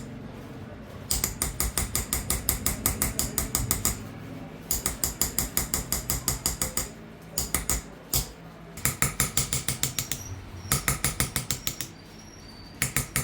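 Small hammer tapping a chasing tool into a silver dish during qalamzani hand-engraving: quick runs of sharp metallic taps, about seven a second, each with a light high ring, broken by short pauses.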